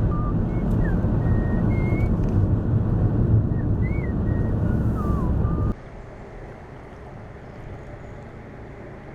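Loud, steady rumbling outdoor noise with a few short whistled chirps over it. A little past halfway it cuts off abruptly to a much quieter, steady hiss.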